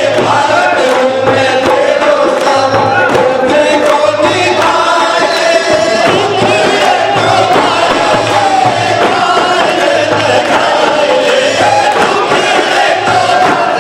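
Devotional Shyam bhajan sung by a group of voices over music with a regular low drum beat.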